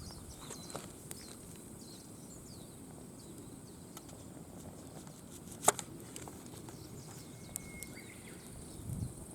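Quiet outdoor background with faint short bird chirps, and one sharp click a little past the middle.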